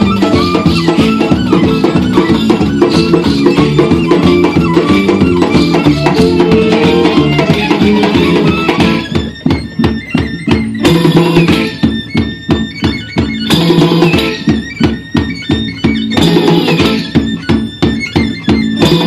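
Live world-music band playing an instrumental passage, a fiddle melody over guitar and percussion. About halfway through, the band shifts to sharp, rhythmic staccato strokes with short breaks between them.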